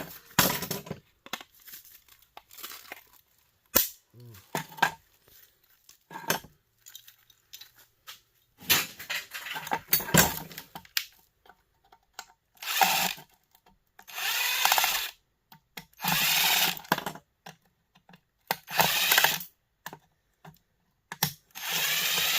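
Cordless drill-driver running in about seven short bursts of roughly a second each, backing screws out of a plastic heater housing. Scattered clicks and knocks of parts being handled in the first few seconds.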